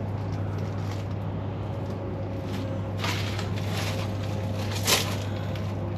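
A steady low hum over background noise, with two faint brief knocks, about three seconds in and just before the end.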